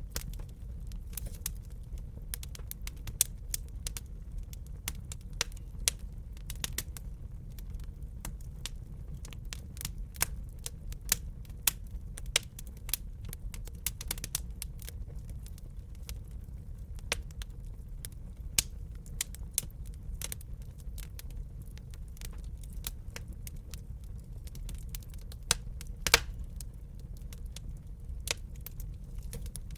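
Wood fire crackling and popping in a fireplace: irregular sharp pops, a few louder snaps among them, over a low steady rumble of burning.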